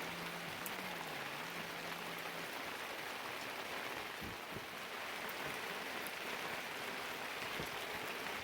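Steady rain, an even hiss with a few louder drops.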